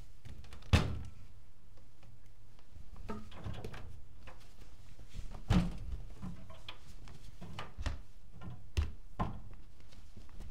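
Privileg Multispar 5110 front-loading washing machine tumbling its drum: irregular dull thuds and knocks about a second apart over a steady low hum, the loudest about a second in and again about halfway.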